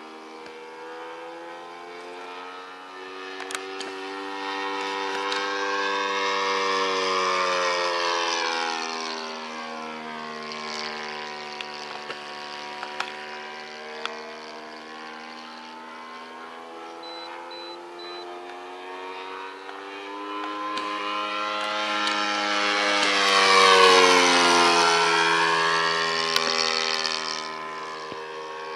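Saito FG-14 four-stroke gasoline engine of a radio-controlled model plane in flight, its steady note growing louder and fading as the plane makes two passes, the second louder. The pitch drops as each pass goes by.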